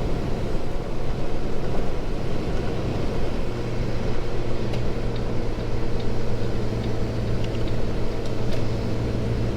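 Kenworth T680 diesel engine running steadily, heard from inside the cab, with a steady low hum that firms up about three and a half seconds in. The truck has a major air leak near the governor while the air compressor runs.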